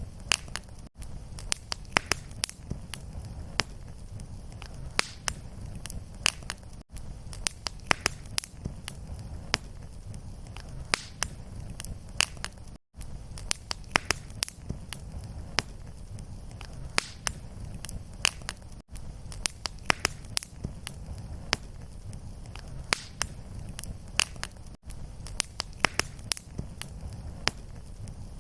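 Fireplace fire crackling, with irregular sharp pops and snaps over a steady low rumble of flame. The sound drops out briefly about every six seconds.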